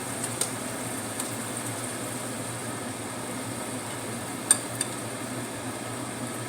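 Steady sizzle of vegetables frying in sauce in a pan, with a spoon knocking against the pan now and then. The loudest knock comes about four and a half seconds in, followed quickly by a smaller one.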